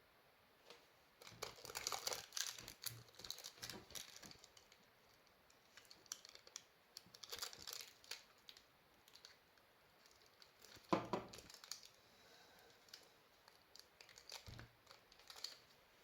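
Crinkling and rustling with scattered sharp clicks from hands handling crinkly material, in irregular bursts, the loudest click about eleven seconds in.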